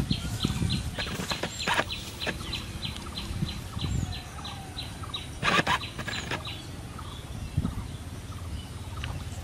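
A bird calling in a fast run of short, falling chirps, about five a second, that stops after about four seconds, with a few sharp knocks and a low rumble underneath.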